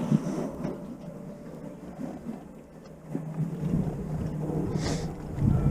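Sailboat under sail: wind buffeting the microphone and water rushing along the hull, building up about three seconds in, with a brief hiss near the end.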